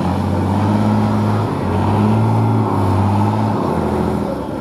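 Off-road trial truck's engine running hard with a low, steady note that eases and picks up again a few times.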